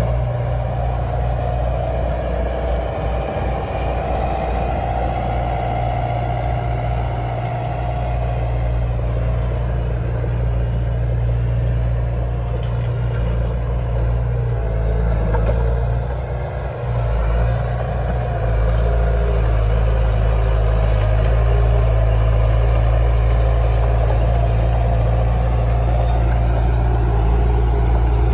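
Heavy earthmoving machine's diesel engine running steadily. It drops briefly about two-thirds of the way through, then picks up and holds a little louder.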